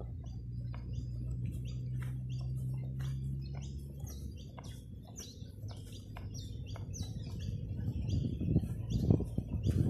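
Many small birds chirping and calling in short, high notes. A low steady hum stops about four seconds in, and a low rumble builds toward the end, loudest near the close.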